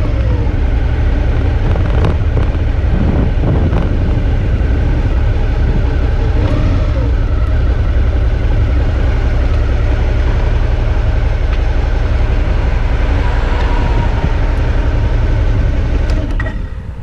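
Suzuki V-Strom 650 motorcycle on the move, its 645 cc V-twin engine humming under heavy wind buffeting on the action camera's microphone. The noise drops away sharply near the end.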